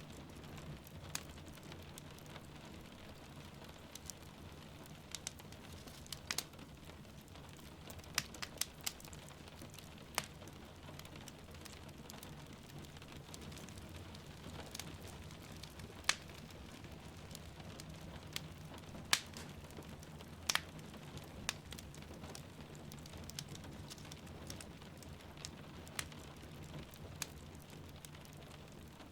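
Fireplace crackling, with sharp irregular pops of the burning wood, over a steady hiss of falling rain.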